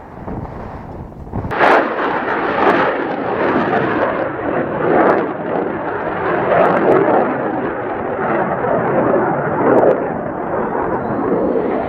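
Military jet aircraft engine noise, loud and rough with an uneven surging loudness, coming in suddenly about a second and a half in.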